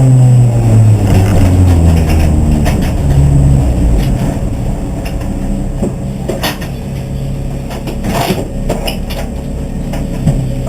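Race car engine with its revs falling over the first few seconds, then running at a low steady speed. Scattered clicks and knocks are heard over it.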